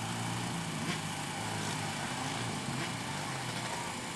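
Junior racing quad and three-wheeler engines running on a motocross track: a steady engine drone over an even hiss.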